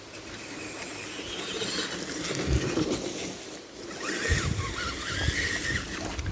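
Tamiya TXT-2 RC monster truck pushing through brush: its electric motor whines as twigs and branches rustle and crackle against it, with two heavy thumps, about two and a half and four seconds in.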